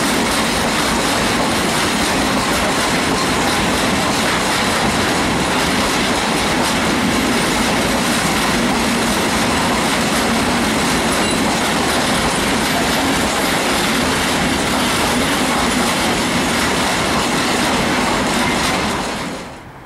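Freight train of open coal wagons rolling past close by, a steady loud rumble and clatter of steel wheels on rail. The sound stops abruptly near the end.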